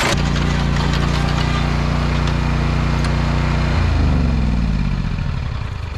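Toro Titan Max zero-turn mower's engine running steadily, then about four seconds in its pitch drops and it winds down and fades.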